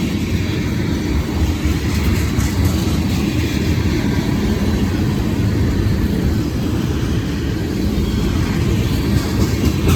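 A long freight train of tank cars rolling past: a steady low rumble, with a few wheel clicks over the rail joints, most of them near the end.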